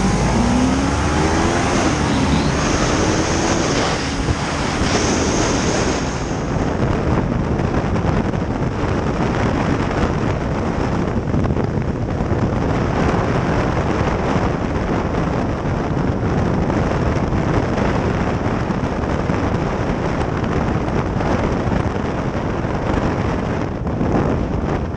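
Steady rushing wind buffeting the microphone of a moving vehicle. A vehicle engine note rises in pitch during the first few seconds.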